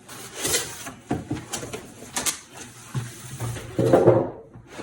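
Cardboard box and packing material being opened and handled: an uneven run of rustles, scrapes and knocks, with a brief pitched squeak about four seconds in.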